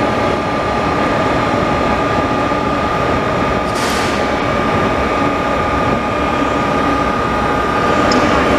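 KTX-Sancheon high-speed electric trains moving through the station: a steady rumble with a thin steady whine over it, and a short hiss about four seconds in.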